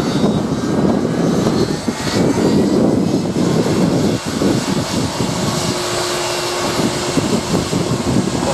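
Boeing C-17A Globemaster III's four turbofan engines running at taxi power: a steady, loud jet rumble with a faint high whine over it.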